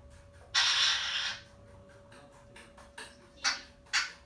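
Young African grey parrot giving a harsh, hissing call lasting under a second, then two short sharp squawks near the end.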